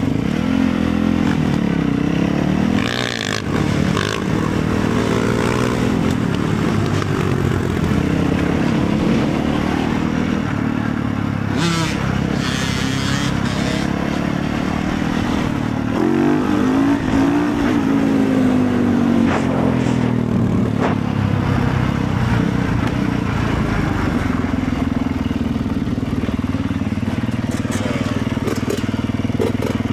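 Motorcycle engine running under way, its pitch rising and falling with the throttle a couple of times, with a few clattering knocks.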